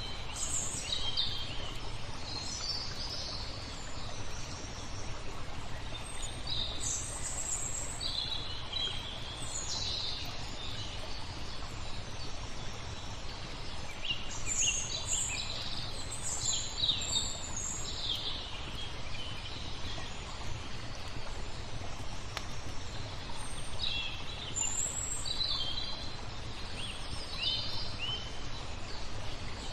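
Small songbirds chirping in short bursts of quick notes, several times, over a steady wash of flowing water.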